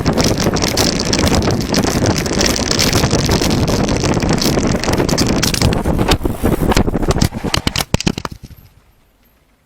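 Wind rushing over the microphone with a rolling rumble from riding at speed, then a quick clatter of knocks as the camera comes loose from its mount and falls, after which the rush cuts off suddenly to quiet.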